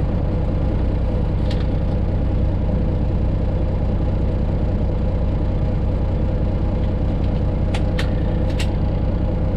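Diesel engine of a Freightliner Classic XL semi truck running steadily under way, heard as a constant low drone inside the cab, with a few brief sharp clicks about a second and a half in and near the end.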